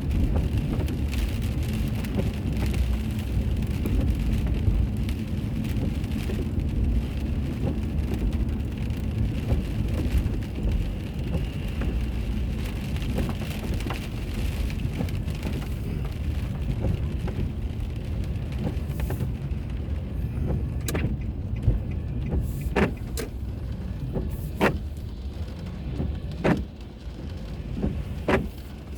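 Steady low road and engine rumble of a moving car, heard from inside, easing in the last few seconds. A sharp click comes about every two seconds in the second half.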